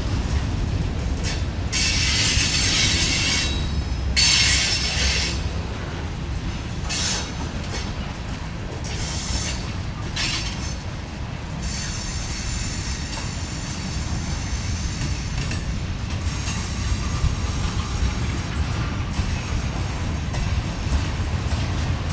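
Freight cars of a mixed freight train rolling past on a curve: a steady low rumble of steel wheels on rail, broken by several bouts of high wheel squeal in roughly the first half, fainter later, as the wheel flanges grind through the curve.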